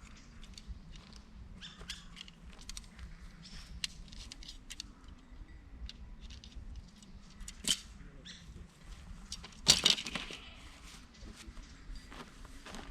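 Camping gear being handled: a run of small clicks and rustles, with a knock near the middle and a louder clatter about ten seconds in.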